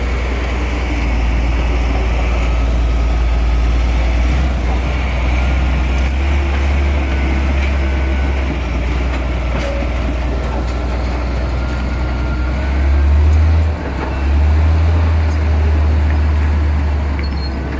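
Heavy diesel engine of earthmoving machinery running under load, a deep steady rumble that swells about thirteen seconds in, dips for a moment, then carries on.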